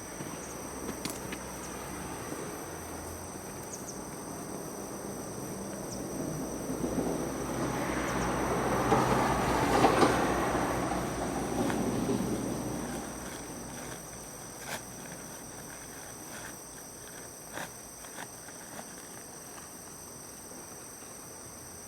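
A vehicle passes by, swelling to a peak about ten seconds in and fading away a few seconds later. Insects trill steadily in the background.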